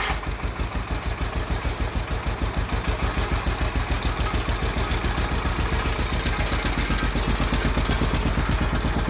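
10 hp Kohler single-cylinder engine of an old Case yard tractor running steadily at low speed with an even, rapid firing beat. It has just been revived after sitting for over 15 years, and the owner thinks the carburetor needs a rebuild kit.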